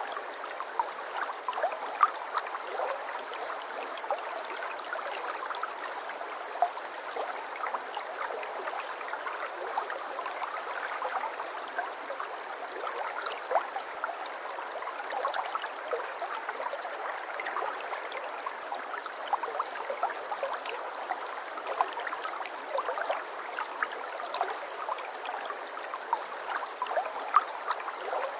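Shallow babbling brook running steadily, water gurgling and splashing over stones, with many small splashes on a continuous flow.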